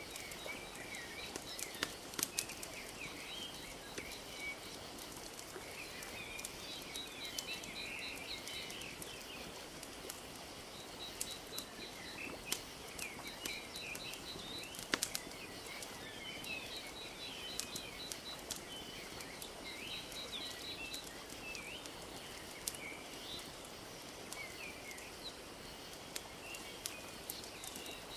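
Wood fire crackling with frequent sharp pops over a steady wash of lapping lake water, with small birds chirping and a rapid high trill recurring every few seconds.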